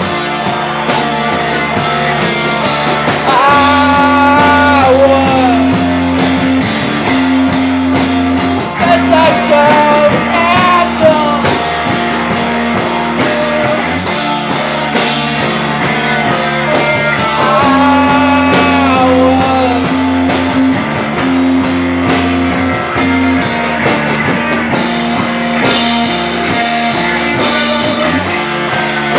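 Live rock band playing an instrumental passage: electric guitars and bass over a steady drum-kit beat, with a gliding lead guitar line twice.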